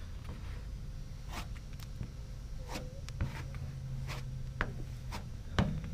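A plastic spreader scraping body filler (Bondo) onto a car's sheet-metal panel: a series of short, separate scraping strokes, over a low steady hum.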